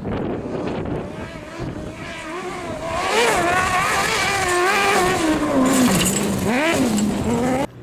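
Rally car engine revving hard on a gravel stage: its pitch climbs and drops repeatedly with throttle lifts and gear changes, and it grows louder as the car approaches. The sound cuts off suddenly near the end.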